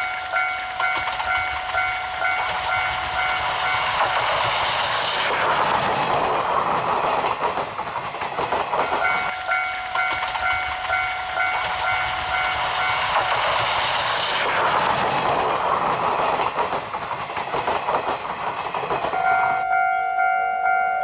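A level-crossing alarm rings in steady repeated pulses. Twice it is drowned out as the C12 66 steam locomotive's train passes, a loud rushing sound with wheels clattering over the rail joints.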